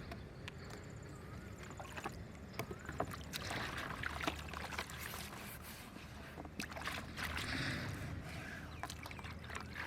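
Water splashing and sloshing in swells, with scattered sharp clicks and knocks.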